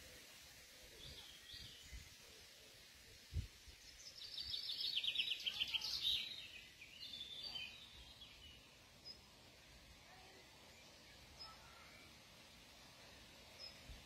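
A songbird singing a high, rapid trill about four seconds in, followed by a few shorter chirps, over faint steady outdoor hiss. A brief low bump comes just before the song.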